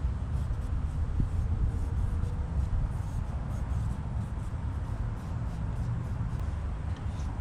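Light rubbing strokes of hand-cleaning an engine's gasket sealing surface, over a steady low rumble of background noise.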